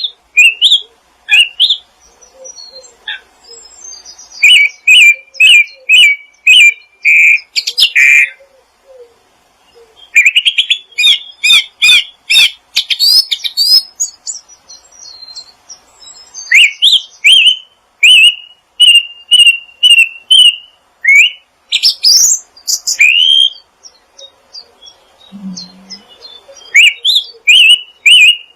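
Songbirds singing in quick runs of short, rising whistled chirps, several notes a second, broken by brief pauses, with fainter low notes underneath.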